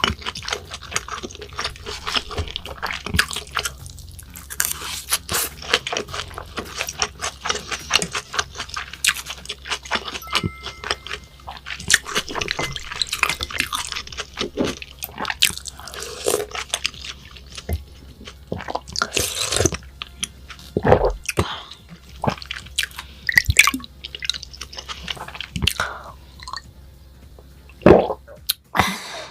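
Close-miked eating sounds of a person chewing raw beef: a steady run of wet smacks and small clicks, with a few louder ones about two-thirds of the way in and near the end.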